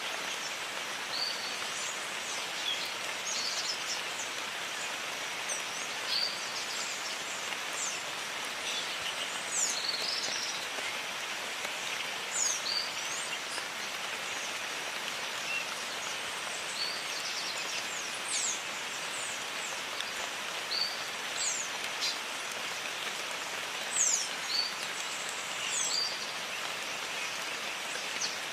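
Steady rain hiss, with birds giving frequent short, high chirps and whistles over it.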